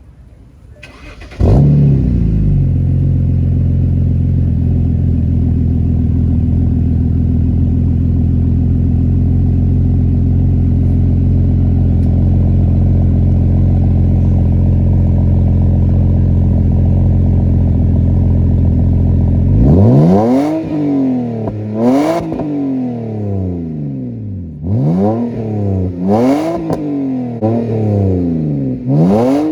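BMW 328i (E90) straight-six starting about a second and a half in through a muffler-deleted exhaust. It idles steadily for about 18 seconds, then is revved several times, the pitch rising and falling with each blip.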